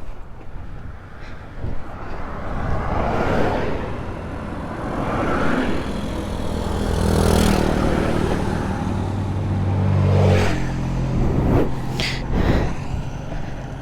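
Yamaha Ténéré 700 parallel-twin motorcycle engine running under way, with wind noise rushing over the microphone. The engine note is strongest through the middle and drops about ten seconds in.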